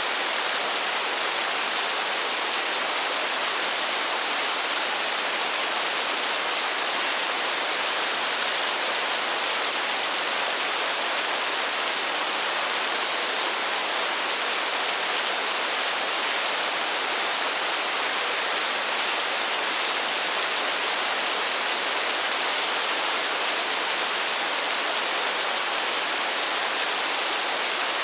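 Steady rain falling, a dense, even hiss with no single drops standing out and no change in level.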